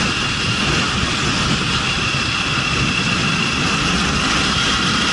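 Steady wind rush and engine drone from a moving motorcycle, recorded on the rider's camera, with a faint high whine running through it.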